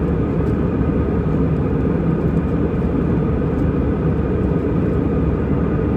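Steady engine and airflow noise of an Airbus A320, heard inside the passenger cabin: a deep, even rumble with a faint steady hum above it.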